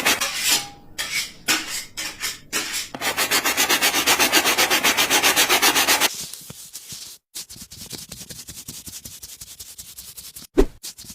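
Wood being sanded by hand with fast back-and-forth strokes, about eight a second. After about six seconds the strokes turn lighter and quieter, and a single knock comes near the end.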